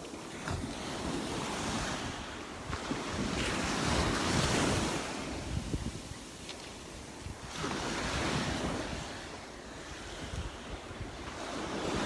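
Surf from the Gulf of Mexico breaking on the beach, swelling and fading every few seconds, with wind buffeting the microphone.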